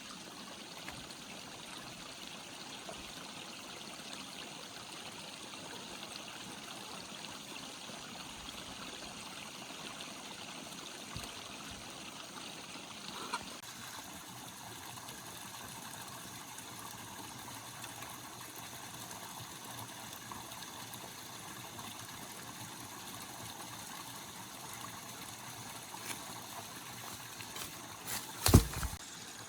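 Steady trickling, flowing water, with a single sharp knock near the end.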